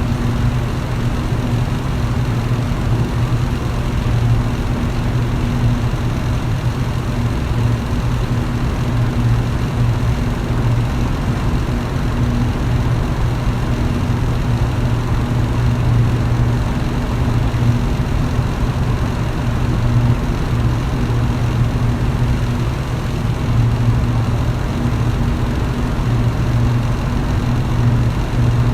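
Electric fan running steadily: a constant motor hum with the even rush of moving air.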